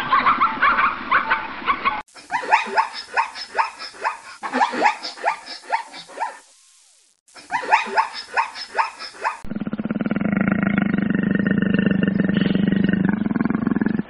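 Zebras calling: several bouts of rapid, yelping bark-like notes, about three a second. Then, about two-thirds of the way in, a tiger's steady low growl takes over and holds for about four seconds.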